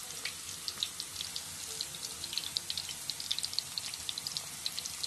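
Minced-meat kofta balls deep-frying in hot mustard oil: a steady sizzle with many small, quick crackles.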